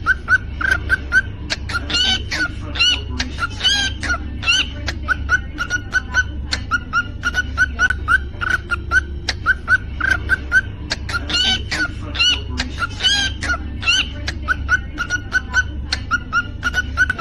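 Cockatiel singing: a steady run of short repeated chirps, several a second, broken twice by louder, higher whistled calls. A low hum runs underneath.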